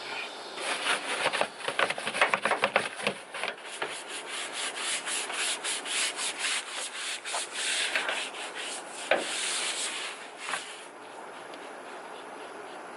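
A stiff brush scrubbing a truck's wheel well in quick back-and-forth strokes, about four or five a second, which stop about eleven seconds in.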